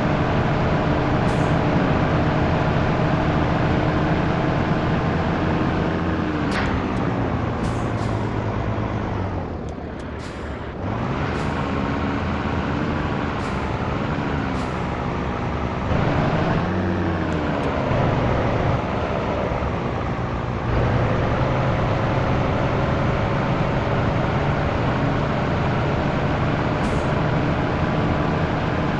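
Scania T113 truck's diesel engine running on the road. Its speed drops about six seconds in and dips briefly around ten seconds, then falls and rises several times, as in gear changes. From about twenty-one seconds it settles into a steady drone that slowly climbs in pitch.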